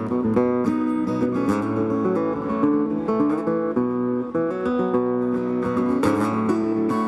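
Live acoustic country music with no singing: guitars strummed and picked in an instrumental passage.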